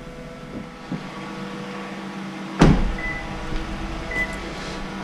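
2016 Toyota Avalon's 3.5-litre 2GR-FE V6 idling steadily after its start-up. About two and a half seconds in there is a single loud thump, followed by three short high beeps about a second apart.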